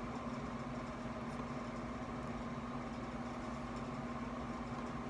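A steady hum with a fixed low tone, unchanging throughout: room background noise from a running machine or appliance.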